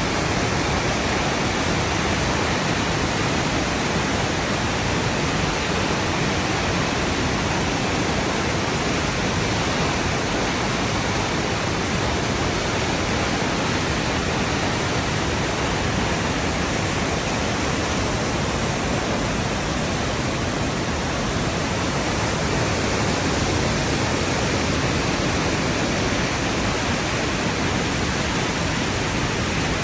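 Rushing water, a steady, even roar with no breaks.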